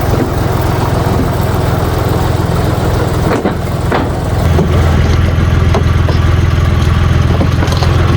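Ditch Witch 5010's air-cooled three-cylinder Deutz diesel running, with a few knocks about halfway through, then running louder for the second half.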